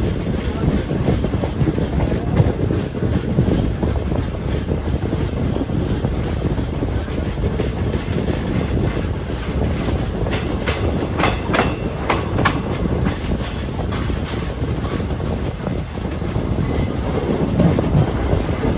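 Passenger train running at speed, heard from an open coach window: a steady rumble with the clickety-clack of wheels over rail joints, and a run of sharper clacks about ten to twelve seconds in.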